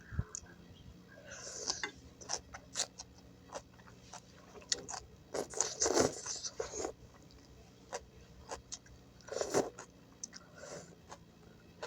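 A person eating gado-gado close to the microphone: wet chewing and crunching of vegetables, with several louder crunching bites.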